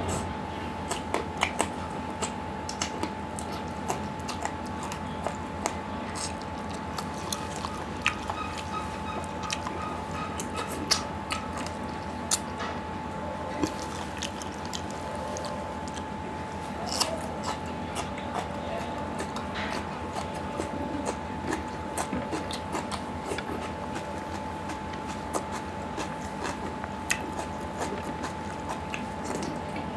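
Close-miked eating sounds: chewing and wet mouth smacks and clicks as chicken curry and rice are eaten with the fingers, over a steady faint hum.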